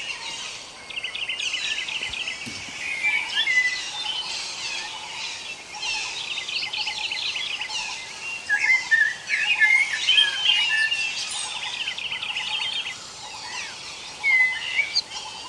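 A chorus of songbirds: several birds overlapping in rapid chirps, trills and short whistled phrases over a faint steady outdoor hiss, with louder calls a few seconds in, around the middle and near the end.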